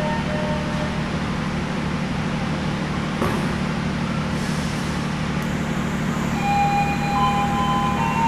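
Harina passenger train running, heard as a steady low engine drone over a rolling rumble, with a few brief high tones coming and going near the end.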